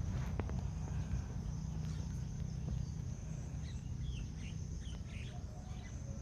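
Outdoor ambience: a low rumble with a steady high-pitched whine over it, and a run of short bird chirps from about halfway through.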